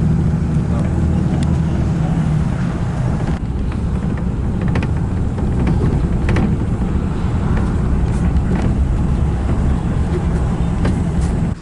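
Car driving: a steady low rumble of engine and road noise with occasional small clicks and rattles.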